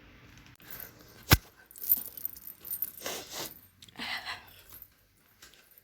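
Handling noise: a sharp click about a second in, then several short rustling, scraping sounds.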